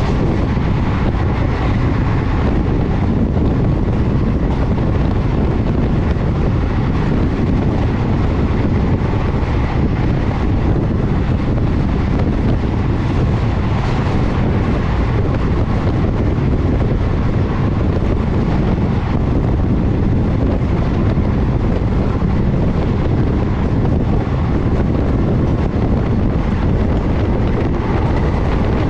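A passenger train running at speed with a steady rumble, and wind buffeting the microphone.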